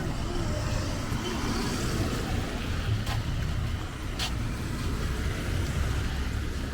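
Street traffic: motor vehicle engines running close by over a steady road hum, with two sharp clicks or knocks about three seconds in and again a second later.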